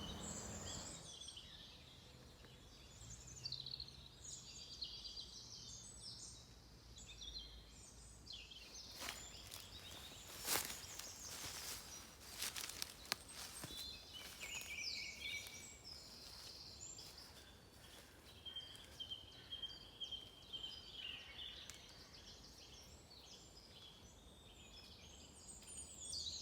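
Faint songs of several wild woodland birds, with overlapping phrases of chirps and trills, over a low steady outdoor background. A handful of sharp clicks or rustles come about ten seconds in.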